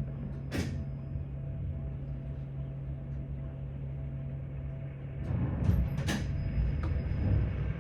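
Tram car interior: a steady low electrical hum over quiet running, then a louder rumble of the wheels on the rails rises about five seconds in. Two short sharp noises come through, one near the start and one about six seconds in.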